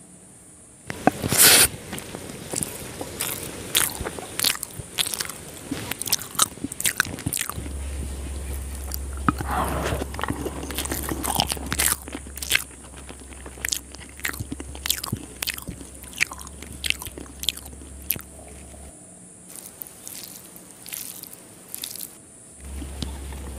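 Close-miked chewing of a mouthful of rice and egg curry, with many short wet clicks and smacks from the mouth. A louder smack comes about a second and a half in, and the clicks thin out for a while near the end.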